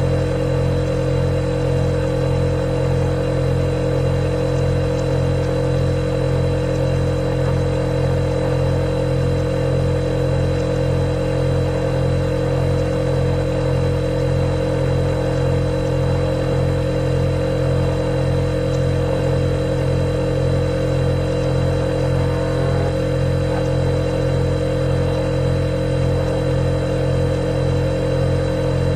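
Refrigerator running with a steady, unchanging hum, with a faint high whine above it.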